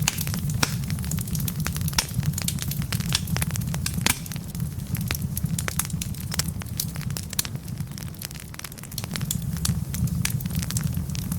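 Wood fire of burning logs crackling, with many quick sharp pops, one louder about four seconds in, over a steady low rumble of the flames.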